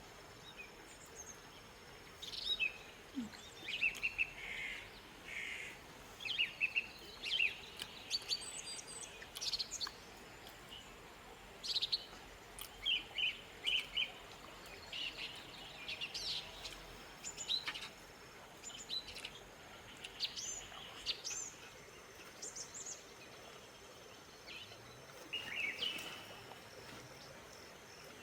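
Small songbirds chirping, with many short, sharp high calls in quick runs. Underneath is a faint, steady background hiss.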